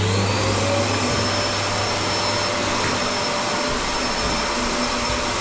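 Vacuum cleaner just switched on, its motor whine still rising in pitch at the start and reaching full speed within the first second, then running steadily as it hoovers up scraped debris from the floor.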